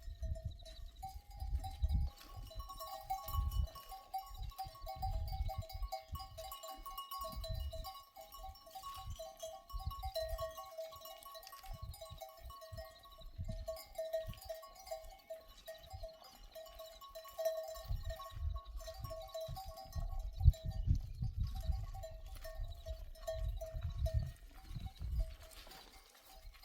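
Flock of sheep and goats, with a steady wavering tone above them and low gusts of wind rumbling on the microphone.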